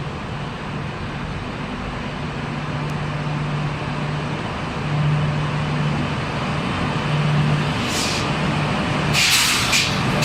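Electric train hauled by a WAP7 locomotive departing: a steady low hum over a rumble, a short hiss about eight seconds in, then a quick run of sharp, bright rattles at about three or four a second near the end.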